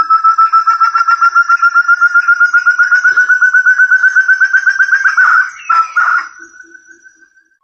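Forest partridge (puyuh hutan) lure call: a long, fast series of clear whistled notes, about eight a second, slowly rising in pitch for about five seconds. A few louder notes follow, then a trail of fading notes that dies away near the end.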